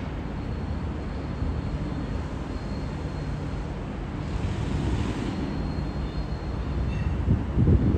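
Renfe electric commuter train pulling away: a steady low rumble with a faint high whine, growing louder toward the end, then cutting off suddenly.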